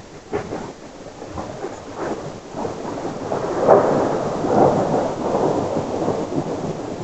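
Thunder from a close lightning strike: a string of sharp crackles that builds into a louder rolling rumble, peaking about four seconds in.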